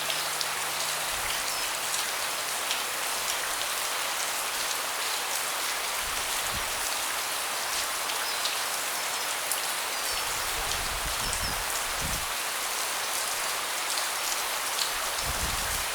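Steady rain falling on a deck, an even hiss with many separate drops ticking through it. A few short, low rumbles come and go, about six, eleven and fifteen seconds in.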